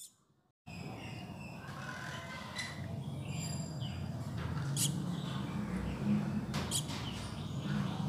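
Faint, high bird chirps over a steady low background hum, with a few small clicks.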